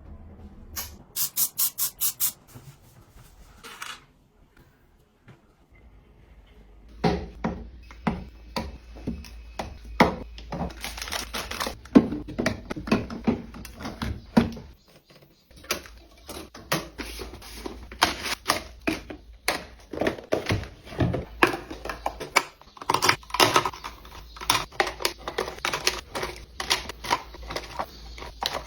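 Many small clicks, taps and knocks of household items being handled and set down, after a quick run of about seven even strokes near the start.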